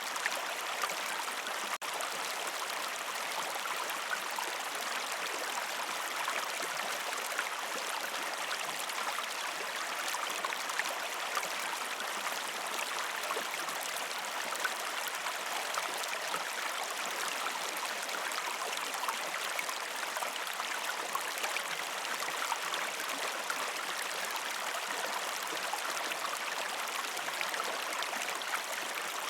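A gentle river stream flowing over rocks: a steady rushing, babbling water sound flecked with small splashes, with a momentary dip about two seconds in.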